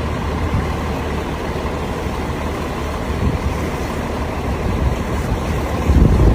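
Hurricane-force wind blowing hard and buffeting the microphone as a steady rushing noise with a heavy low rumble, swelling in a stronger gust near the end.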